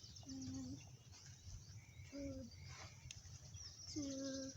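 A child's voice singing three short, held notes, one near the start, one about two seconds in and one near the end, with birds chirping faintly in the background.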